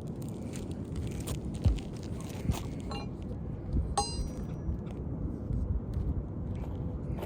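Scrapes and knocks of a hand tool working on asphalt roof shingles, with a sharp ringing metal clink about four seconds in and a fainter one just before it.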